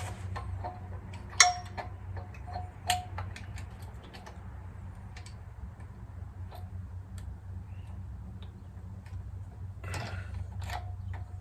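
Hand tools and small metal parts clicking and clinking during hands-on repair work, with two sharper clinks about a second and a half apart near the start, each with a brief metallic ring, and a short rattling scrape near the end. A steady low hum runs underneath.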